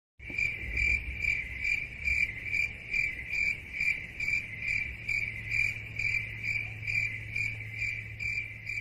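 Crickets chirping in an even, steady rhythm of about two and a half chirps a second: the stock 'crickets' sound effect used for an awkward silence.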